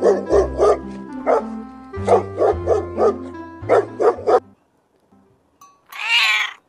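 A dog barking in quick short barks, about a dozen in the first four and a half seconds, over background music with sustained low notes. After a short pause, a cat meows once near the end.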